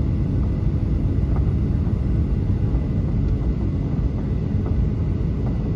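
Cabin noise aboard a Boeing 737-800: a steady rumble from its CFM56 jet engines and the airflow, with a few faint ticks.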